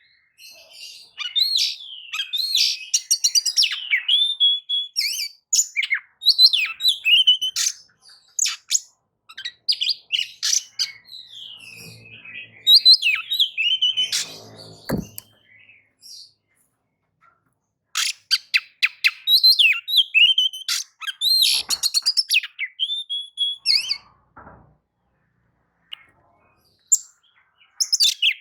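Oriental magpie-robin (kacer) singing in full voice: varied phrases of rapid clicking trills and gliding whistles, delivered in bursts with a couple of pauses of about two seconds.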